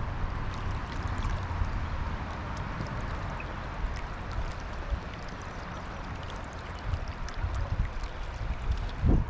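Steady rush of a fast-flowing river, with uneven low rumbling underneath and a louder low thump near the end.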